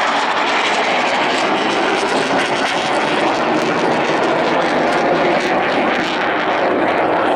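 RAF Typhoon FGR4's twin Eurojet EJ200 turbofans running at high power during a display pass and turn: loud, steady jet noise, its upper hiss easing slightly near the end.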